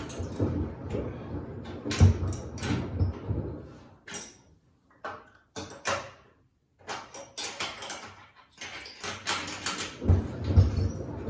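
Samsung WD70T4047CE front-loading washing machine tumbling sneakers in its drum: irregular thuds and knocks. The drum stops for about two seconds midway, then starts turning again.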